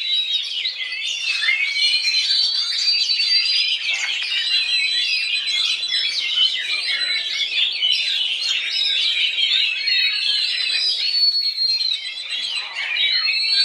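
Oriental magpie-robin (kacer) singing a continuous, varied song of rapid chirps, trills and clear held whistles, barely pausing.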